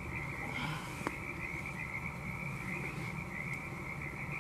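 A chorus of frogs calling steadily in the background, with a single light click about a second in.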